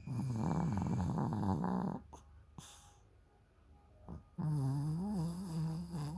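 Sleeping dog snoring: two long, drawn-out snores with a wavering pitch, each lasting about two seconds, with a quiet pause between them.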